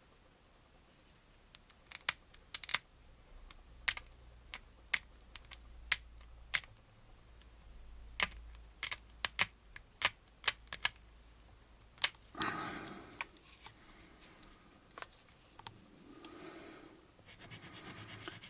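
Irregular sharp clicks and taps of small plastic model-kit parts and tools being handled on the workbench. About twelve seconds in, they give way to short spells of sandpaper rubbing on the plastic part.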